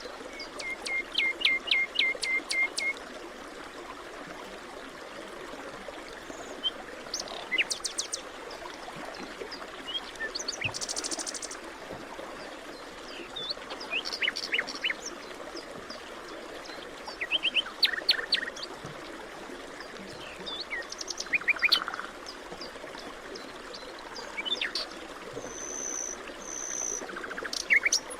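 Several birds chirping and calling over a steady hiss of background noise. In the first few seconds one bird gives a quick run of about ten repeated notes.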